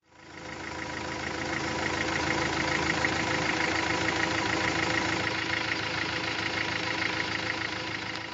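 Iveco trial truck's diesel engine idling steadily with a regular clatter. It fades in at the start.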